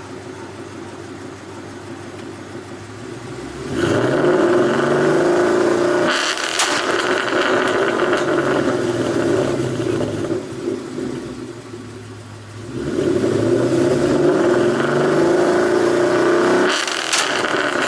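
2012 Ford Mustang GT's 5.0 Coyote V8, fitted with a PMAS cold air intake, idling and then revved twice, each rev rising quickly, held for a few seconds and dropping back.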